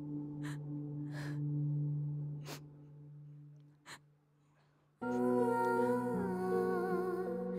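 Background film score. A low sustained drone, crossed by a few brief hissing sounds, fades away. About five seconds in, a sad melody starts suddenly, with a woman humming over instruments.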